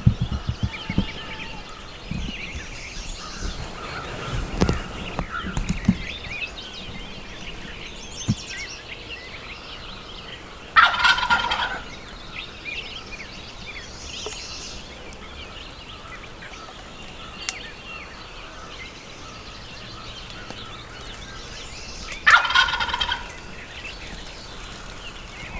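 Wild turkey gobbler gobbling close by, twice, each gobble about a second long, roughly eleven seconds apart, with faint songbirds between.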